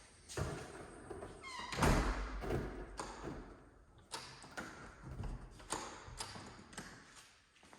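A door shutting with a thud about two seconds in, with a short squeak just before it, amid footsteps on a hard floor.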